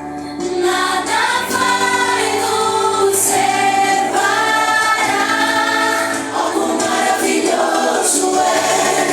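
A group of voices singing a Christian worship song in harmony, with held notes, over instrumental backing.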